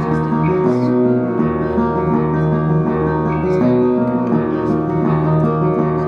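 A band playing the instrumental intro of a song: held chords that change every second or so, with no singing.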